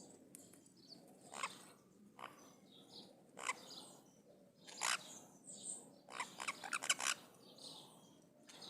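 Maritacas (small Brazilian parrots) calling: short, harsh calls every second or two, with a quick run of several calls about two-thirds of the way through.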